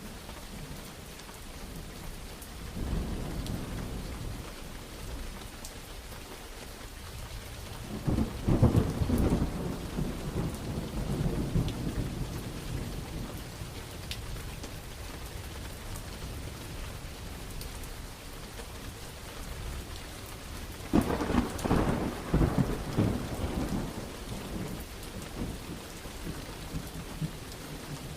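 Steady rainfall with thunder rolling three times: a lighter rumble about three seconds in, then louder, crackling peals about eight seconds in and again near twenty-one seconds, each dying away over a few seconds.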